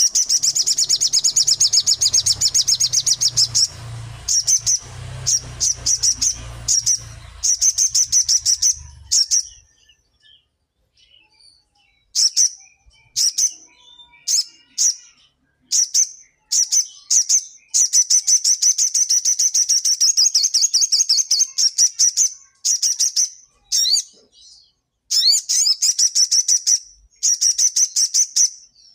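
Sogon songbird singing loud, rapid, high-pitched trills in phrases of varying length, with a longer pause about ten seconds in before it sings on more persistently.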